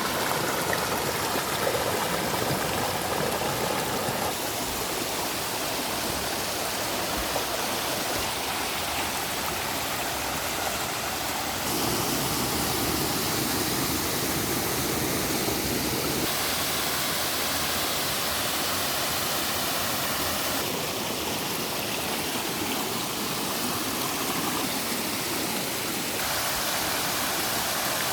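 A stream rushing steadily over rocks into a natural pool. The noise of the water shifts abruptly in tone every few seconds.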